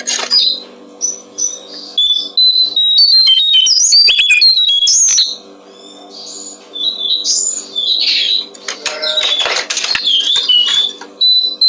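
Jongkongan coklat songbird singing a rapid run of varied chirps, trills and whistles, with a pause of about a second near the middle, over a steady low hum.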